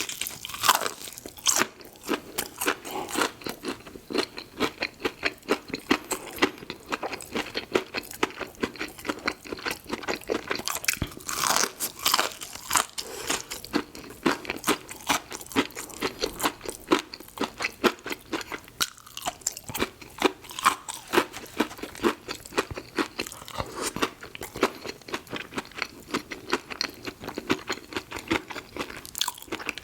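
A person chewing and biting food close to the microphone, a fast run of wet crunches several times a second.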